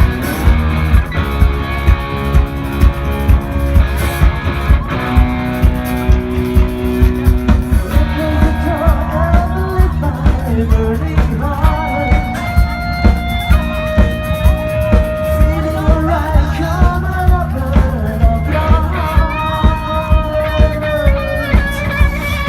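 Live rock band playing loudly: drum kit on a steady beat about twice a second under electric guitar, with a lead line of held and bent notes from about a third of the way in.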